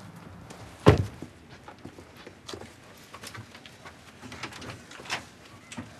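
A door shutting with a single heavy thump about a second in, followed by light scattered clicks and taps.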